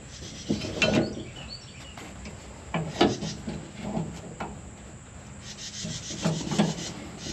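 Scraping, rubbing and scattered knocks of hands and tools working a drive belt between the pulleys of a combine's elevator drive.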